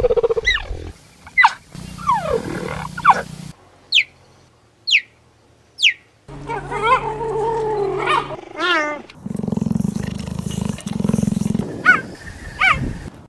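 Cheetah and leopard vocalisations edited together. Short, high chirps fall sharply in pitch, three of them about a second apart near the middle. Between them come longer wavering calls and stretches of low, steady rumbling.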